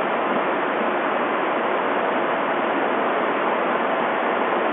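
Steady, even rushing noise of the large fans that blow wind across the pool for indoor sailing.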